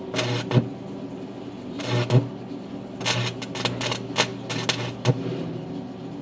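Electric welding arc crackling in several short bursts, some half a second long and some a few together, over a steady low hum.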